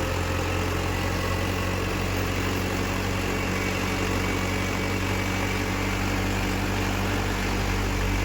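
Tractor's diesel engine running steadily under way, a constant low drone with no change in speed.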